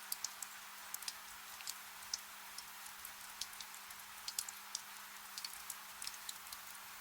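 Soft rain: a steady hiss with frequent small, sharp drop ticks scattered through it. A faint, steady low hum sits underneath.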